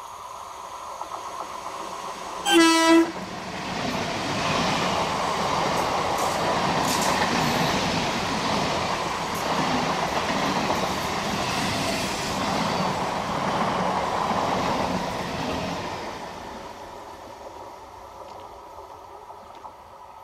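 Electric multiple unit (EMU) local train sounds one short horn blast about two and a half seconds in, then passes close by with a steady rumble and clatter of wheels on rails. The rumble fades away after about sixteen seconds.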